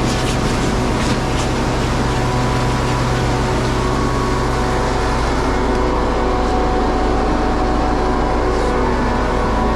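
Scania vacuum truck's diesel engine running at a steady speed, a constant low drone.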